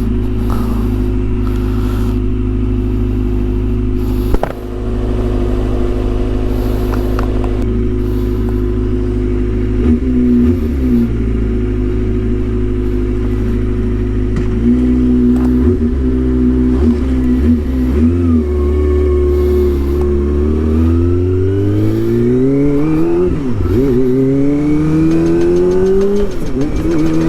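Kawasaki Ninja ZX-25R's 250 cc inline-four running through a Yoshimura R77 full exhaust while riding, held at a steady pitch for long stretches with a few brief dips in revs and a sharp click about four seconds in. Over the last quarter it revs up through the gears, the pitch climbing and dropping briefly at each upshift.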